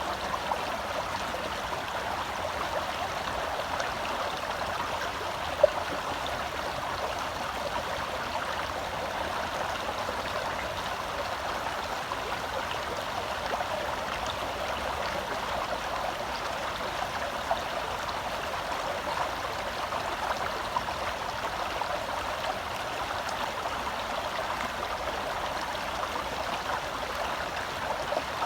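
Forest stream flowing, a steady rush of water, with one sharp click about five and a half seconds in.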